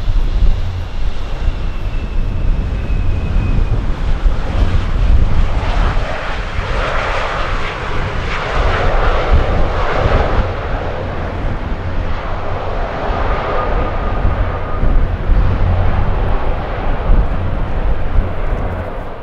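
Jet airliner passing, its engine roar swelling to loudest about eight to ten seconds in and then easing off, with a heavy wind rumble on the microphone throughout.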